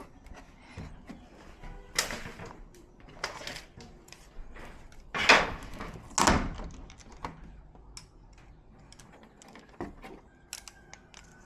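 Scattered clicks and knocks of parts being handled while a TV is taken apart, with connectors being pulled: a handful of short, sharp knocks, the loudest about five and six seconds in.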